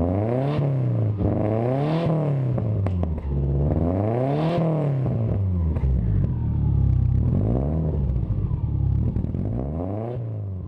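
Car engine being revved several times, the pitch climbing and falling back with each blip.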